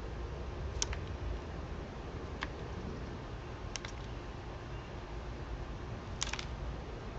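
A few short, sharp clicks at irregular intervals, two of them close together near the end, over a steady low rumble.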